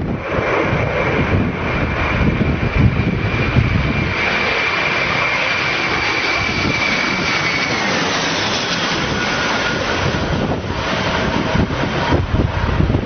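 Aircraft engine running, a steady high whine over rumbling noise; the whine drops in pitch about eight seconds in as the engine winds down.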